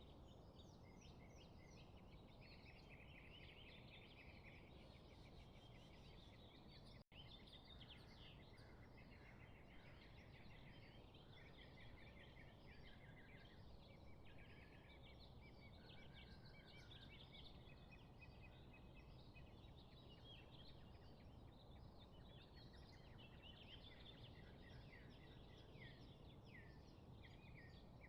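Faint chorus of many small birds chirping and trilling together, over a steady low background rumble; the sound drops out for an instant about seven seconds in.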